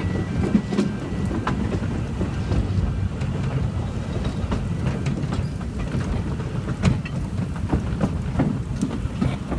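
Narrow-gauge passenger train running: a steady low rumble of wheels on rail with scattered clicks and knocks. The level crossing's two-tone warning alarm carries on faintly for about the first two seconds.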